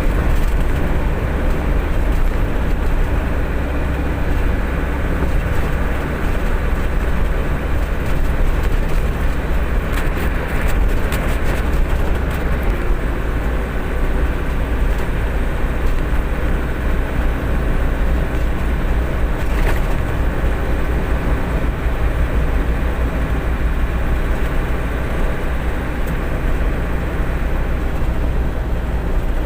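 Truck running, a steady deep engine and road noise throughout, with a few brief clicks near the middle.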